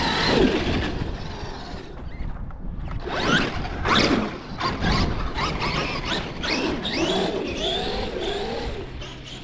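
Traxxas X-Maxx Ultimate electric RC monster truck's brushless motor whining, rising and falling in pitch with quick bursts of throttle. The revs come in rapid succession from about three seconds in.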